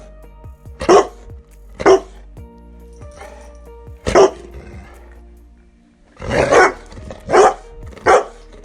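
Dog barking in single barks, six in all, with a longer pause in the middle, over steady background music.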